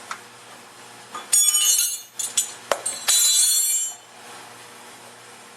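Metal hand tools clinking and rattling against each other with a bright metallic ring, in a few clattering bursts lasting about three seconds.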